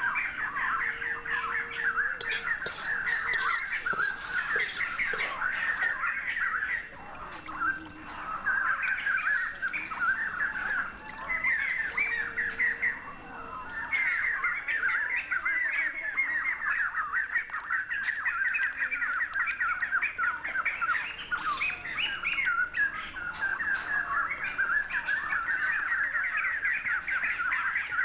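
Birds chirping in a dense, continuous chorus of quick repeated calls, with brief lulls a few times.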